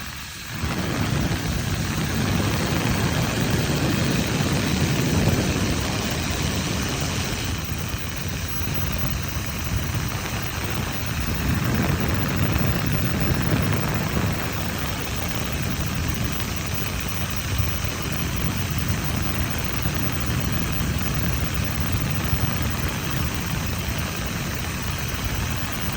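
Sharp IB-WX901-B Plasmacluster hair dryer running steadily, a continuous rush of blown air and motor noise.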